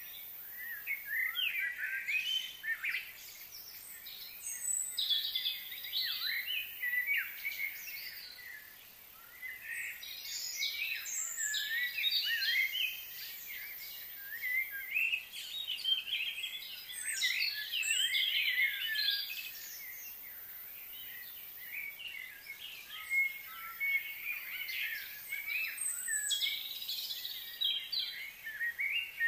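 Birds chirping and calling in overlapping bouts of quick, sweeping high notes, with short lulls between the bouts.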